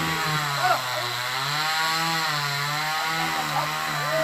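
Chainsaw running at high revs while cutting a tree, its pitch dipping and rising slightly as the cut loads the engine.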